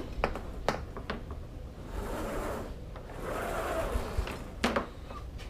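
Kayak fittings being handled: light clicks and knocks, then two rubbing, sliding sounds of about a second each.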